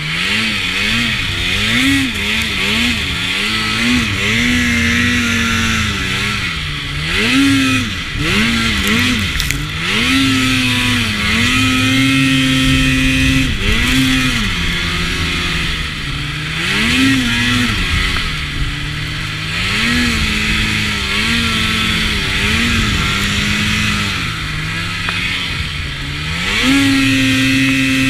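Arctic Cat XF 800 snowmobile's two-stroke twin engine, its pitch rising and falling again and again as the throttle is worked. The revs are held steady and high for stretches, one about halfway through and another near the end.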